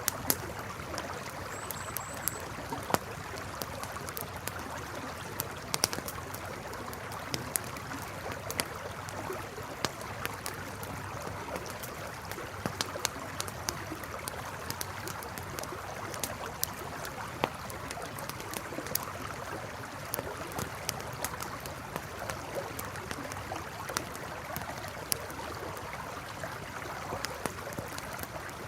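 Campfire crackling with frequent irregular sharp pops over the steady rush of a flowing river. A few faint high chirps sound about two seconds in.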